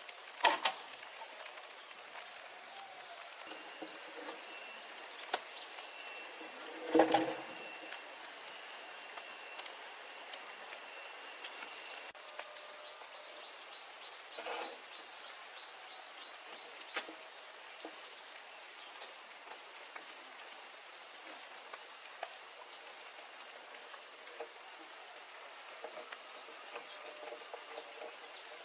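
Steady high-pitched insect chorus, with a few scattered knocks. The loudest knock comes about seven seconds in and is followed by a quick run of high chirps.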